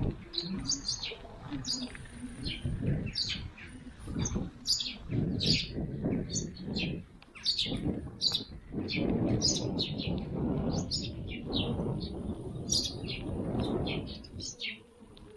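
Small birds chirping over and over in quick, short, falling notes, over a low rumbling noise that swells and fades and is loudest around the middle.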